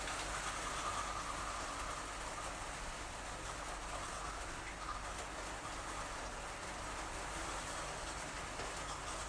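Steady rain falling, a constant even hiss with a low hum beneath it.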